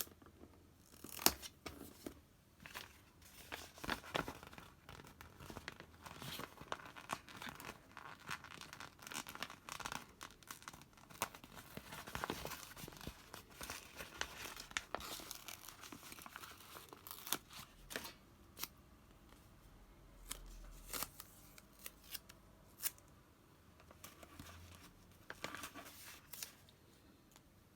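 Close-up crafting sounds of craft materials being cut, peeled and crinkled, with scattered sharp taps and clicks.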